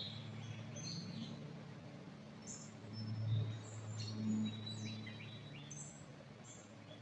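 Small songbirds chirping and calling in short high notes, scattered through, over a low steady rumble that swells briefly about three to four seconds in.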